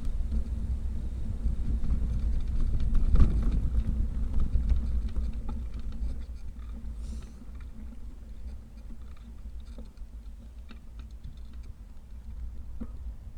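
Wind rumbling on the microphone of a camera riding on a moving bicycle, with light rattling and clicking; louder in the first half, with a knock about three seconds in.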